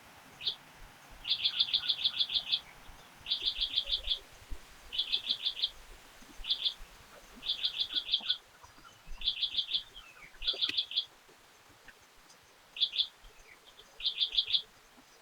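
A bird calling over and over in quick runs of short, sharp, high chips, about eight a second, with anywhere from a single note to about ten notes in a run and short pauses between runs.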